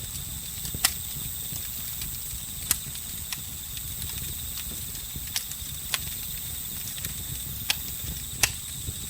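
Campfire crackling, with about six sharp pops scattered a second or two apart over a low rumble of the fire. Behind it, a steady high trill of crickets and other night insects.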